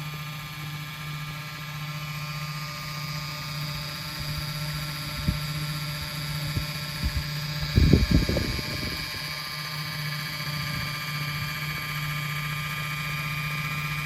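RC ERA Bell 206 micro-scale RC helicopter running, with a steady low rotor hum and a high, even whine from its small electric motors. A few low thumps break in, the loudest cluster about eight seconds in.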